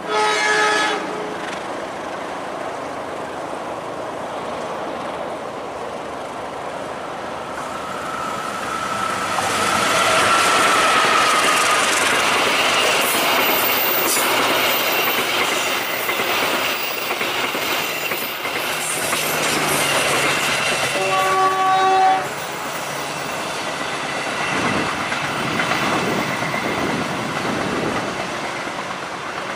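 KAI diesel-electric locomotive and its passenger coaches passing, with a short horn blast at the start and another about 21 seconds in. Between them the wheels rumble and clack over the rail joints, and there is a brief squeal of wheels on the curve around ten seconds in.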